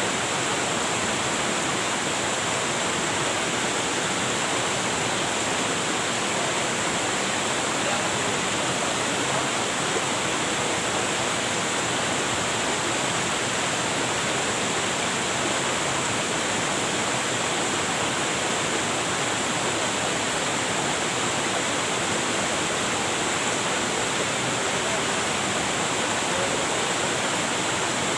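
Waterfall, a steady rush of falling water that holds even and unbroken.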